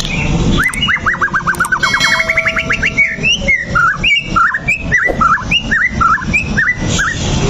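White-rumped shama (murai batu) singing: a fast run of short rising whistles, about nine a second, then a varied phrase of separate whistled notes. A steady low background noise runs beneath.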